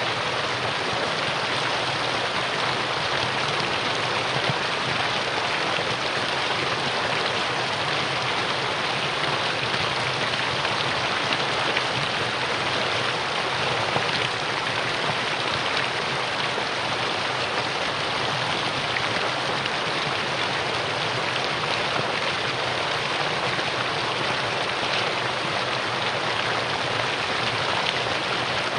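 Mountain valley stream running, a steady, even rush of water with no pauses or changes.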